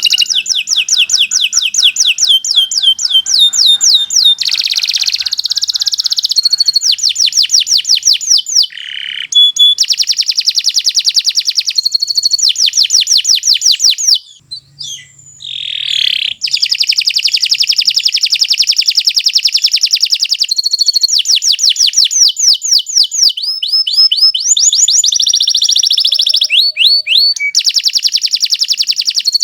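Domestic canary singing a long, continuous song of rapid trills, each a fast run of repeated notes, switching to a new trill every second or two. There is one short break about halfway through.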